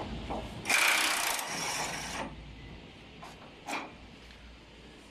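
A wrench working on steel bolts: a short, loud rasping ratchet burst about a second in that trails off, then a few light metallic clicks.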